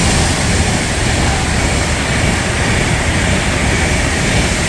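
Class 390 Pendolino electric train passing at speed: a loud, steady rush of wheels on rail and air.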